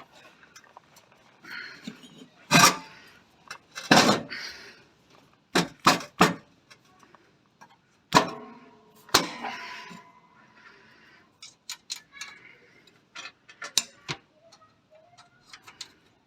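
Hand tools and metal parts being handled: a string of separate knocks, clicks and clanks. One metal clank about eight seconds in rings on with a clear tone for a second or two.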